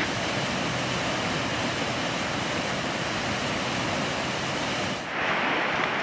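Water of the River Garry rushing through the rocky Killiecrankie gorge, a steady rush; about five seconds in the sound changes abruptly to a slightly duller rush.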